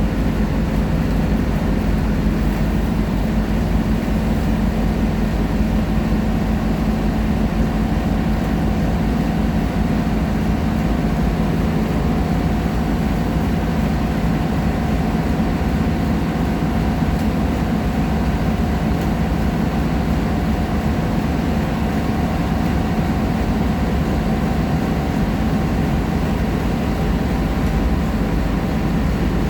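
Scania K310IA articulated bus's diesel engine running steadily, with a constant drone and a few steady tones over road and drivetrain noise.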